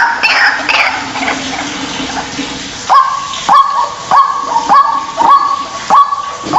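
White-breasted waterhen calling. A jumble of falling notes fades out in the first second. Then, from about three seconds in, comes a steady run of short loud calls about every half second, each rising sharply and then held.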